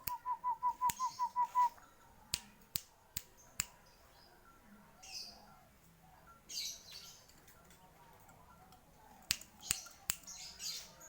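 A zebra dove (perkutut bangkok) cooing: a quick, even run of about ten short coos that stops under two seconds in. Four sharp clicks follow, then a few soft rustles.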